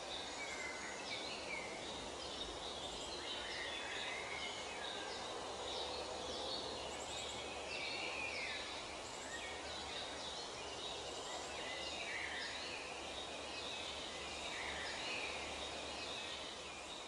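Outdoor ambience of birds chirping and calling in many short, quick notes over a steady background hiss.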